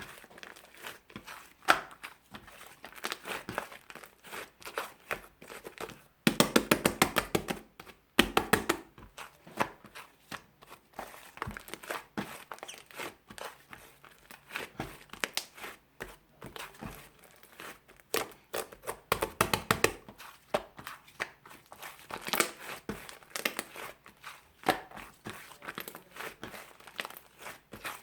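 Fluffy clay slime being squished and stretched by hand, crackling and clicking, with a quick run of popping clicks about six seconds in and again near twenty seconds.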